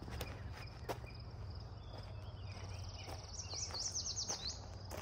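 Songbirds singing outdoors: a high, rapid trill repeating, and a louder run of quick sweeping notes about three and a half seconds in. A steady low hum underneath, with a couple of soft knocks in the first second.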